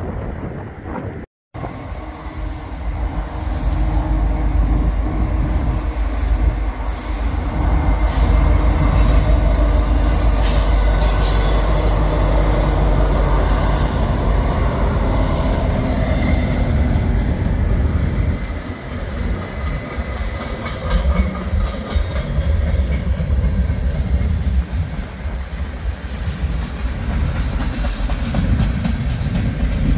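Canadian National freight train passing close by: a heavy, steady rumble of locomotive and rolling cars, with wheels clicking over rail joints and squealing. The sound cuts out briefly about a second in, then the train noise comes in loud.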